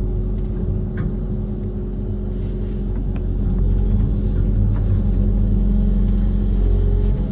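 Kobelco SK130 amphibious excavator's diesel engine running steadily, growing louder about three and a half seconds in as it takes on more load. A few faint knocks sound over it.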